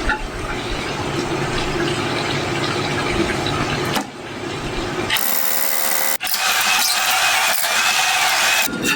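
A power tool working on a concrete slab, heard in several short segments that change abruptly. The first part has a full low rumble; from about halfway it turns into a bright hiss with little bass.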